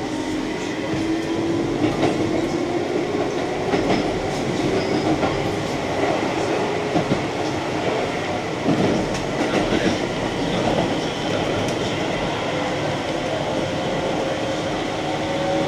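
Keihan Main Line electric train running between stations: a steady rolling rumble with a motor whine that rises slowly in pitch, and wheels clicking over rail joints.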